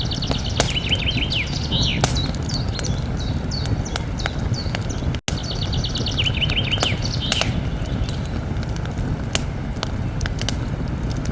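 Campfire burning with a steady low rush and frequent sharp crackles and pops. A songbird sings a quick run of notes followed by a few lower, falling notes, twice, and the sound cuts out for an instant about five seconds in.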